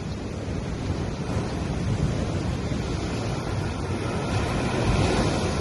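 Small sea waves washing onto a sandy beach in a steady rush of surf, with one wash swelling louder about four seconds in.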